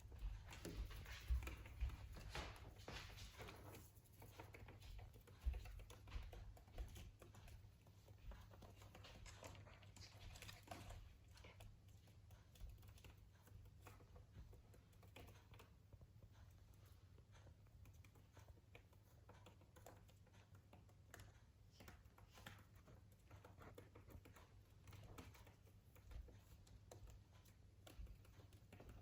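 Faint, irregular light clicks and taps over a low steady hum, more frequent in the first dozen seconds.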